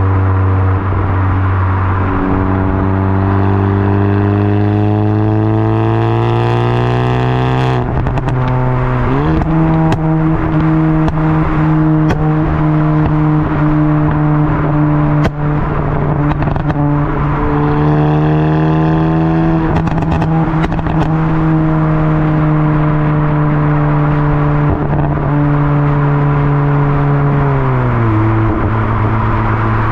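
Hyundai i20 N's 1.6-litre turbocharged four-cylinder through a Milltek exhaust, heard at the tailpipe. The engine note rises steadily under acceleration for about eight seconds, drops at a gearshift, then holds at nearly steady revs with scattered sharp cracks, and drops again near the end.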